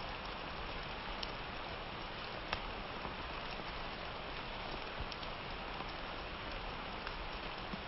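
Steady summer rain falling, an even hiss with scattered sharper drop hits, the clearest about two and a half seconds in.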